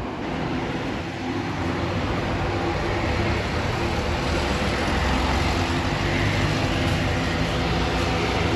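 Aircraft engines running with a steady hum and rush, slowly growing louder.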